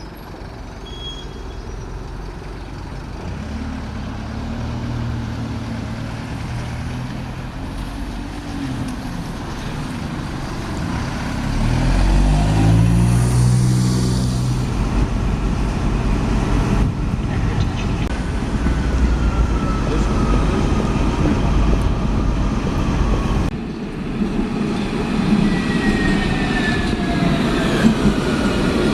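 Heavy vehicles moving in city traffic: about twelve seconds in, a bus engine revs up, rising in pitch as it pulls away, then runs steadily. Near the end a high whine glides in pitch as another vehicle passes.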